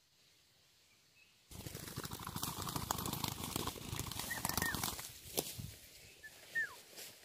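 A bird's wings flapping hard in a sudden flurry of rustling about a second and a half in, lasting a few seconds, followed by two short high chirps that slide downward.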